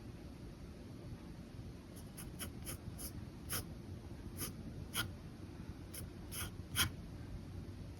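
Pen scratching on paper in short, quick strokes. After a quieter first two seconds, about a dozen strokes come at an uneven pace, over a steady low room hum.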